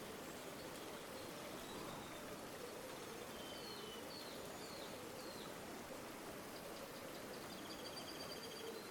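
Steady rush of a flowing river, faint and even, with a gurgle that wavers up and down in pitch. A small bird gives a few short chirps midway and a quick trill near the end.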